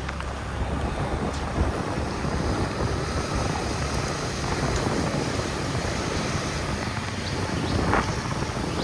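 Wind buffeting the microphone on a moving motorbike, over a steady rumble of engine and road noise.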